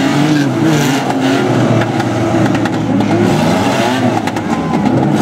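Several banger racing cars' engines revving at once, their pitches rising and falling over one another, with a few sharp knocks.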